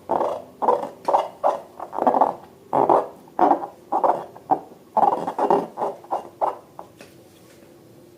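Slime being worked, giving short wet squelches about twice a second that die away about seven seconds in.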